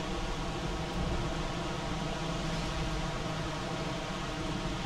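Heavy early-spring rain falling steadily on shrubs and pavement, an even hiss with no letup.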